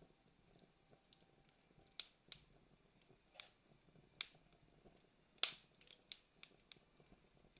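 Campfire crackling: irregular sharp pops and snaps of burning wood, the loudest pop about five and a half seconds in, over a faint low hiss.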